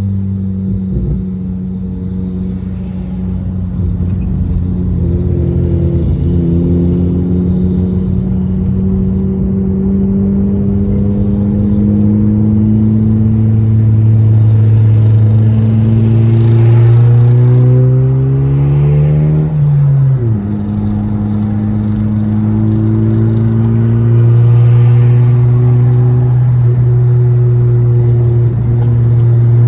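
Car engine and exhaust drone at a steady pitch while driving, the revs climbing slowly and then dropping suddenly about two-thirds of the way through, like a gear change, before holding steady again.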